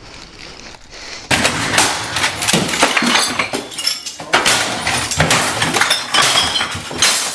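Plastic packaging crackling and crinkling loudly as it is pulled and torn open, starting about a second in with a dense run of sharp crackles.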